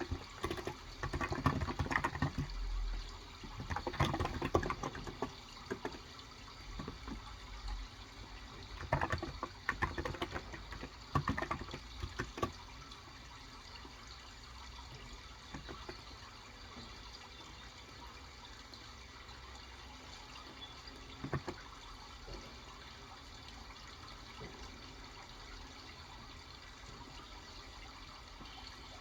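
Steady sound of running water, with several short clusters of taps and clicks in the first half and a single one a little past the middle.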